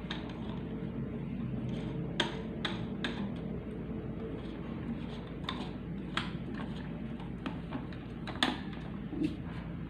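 Light clicks and taps of small hard objects being handled, about six scattered through, over a steady low hum.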